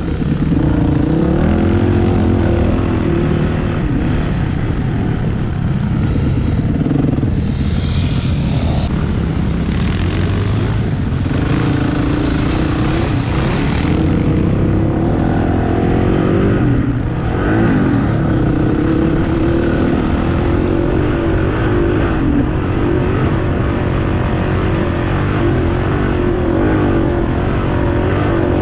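Motorcycle engine running under way, its pitch rising and falling with the throttle. There is a hissing rush in the middle stretch.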